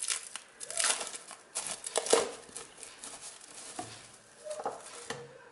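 Plastic cling film crinkling and rustling as it is pulled and pressed over a dish, in a run of irregular crackles that thin out after about two and a half seconds.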